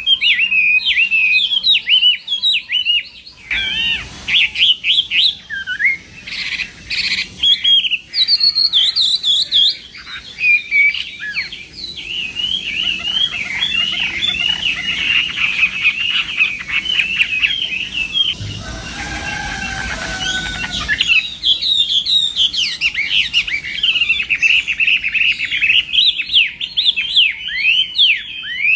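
Chinese hwamei singing a long, near-continuous song of quick, varied whistled phrases.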